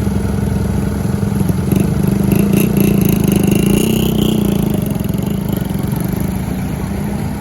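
A motor vehicle's engine running close by with a steady, even pulse. It grows louder about a second and a half in, with a brief rising whine, then eases off.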